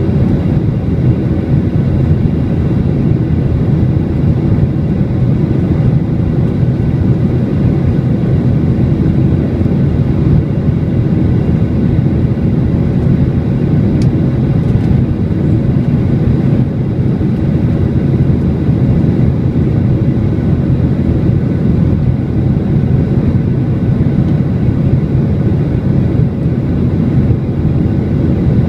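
Airliner jet engines heard from inside the cabin during the climb after take-off: a steady low rumble with faint steady whine tones above it.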